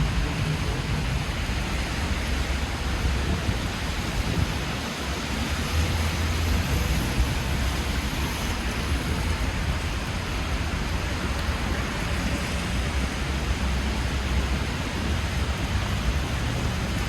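Steady hiss of rain on a city street, mixed with the low rumble of traffic on the wet road.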